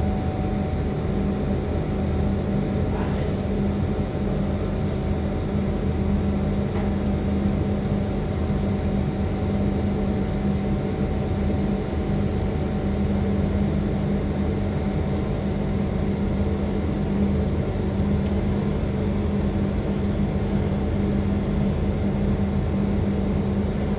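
Laser cutting machine running as it cuts acrylic: a steady machine hum with a constant low tone, unchanging throughout.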